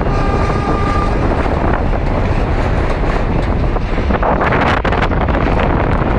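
Passenger train running over a steel girder railway bridge, a steady loud noise of wheels and coaches, with heavy wind buffeting the microphone. A thin high tone sounds through about the first second.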